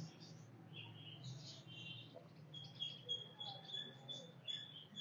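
Birds chirping faintly, with a high thin trilling note held for about two seconds in the second half.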